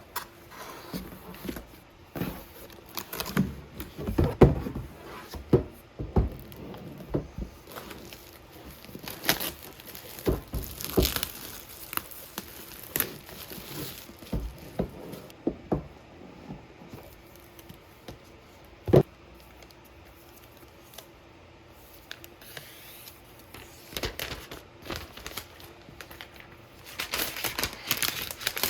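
Packaging being crinkled and torn, with irregular clicks and knocks of handling; it thins out for a while after about the middle, with one sharp click, then picks up again near the end.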